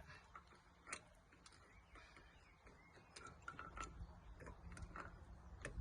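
Faint, irregular metallic clicks and ticks as wheel nuts are turned onto the truck's wheel studs, checking that the threads are not cross-threaded.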